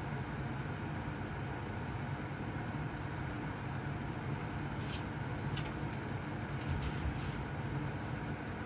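Tansu no Gen QL11 spot air conditioner running: a steady low hum under an even rush of air, with a few faint clicks a little past the middle.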